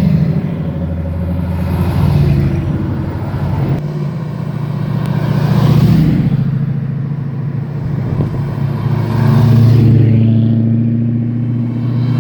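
Car engine running under load while driving, its pitch and loudness rising and falling several times as it accelerates and eases off.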